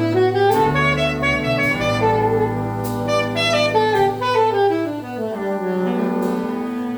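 Jazz octet of saxophones, trumpet, trombone, piano, bass and drums playing live, the horns moving together in phrases over walking bass with a few cymbal strikes. About five seconds in the bass drops out and the horns hold long notes.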